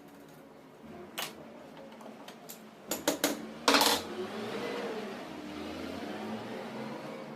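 Several sharp clicks and clanks of hand tools and metal parts being handled: one about a second in, a quick cluster around three seconds and the loudest just before four seconds. A faint steady hum runs underneath.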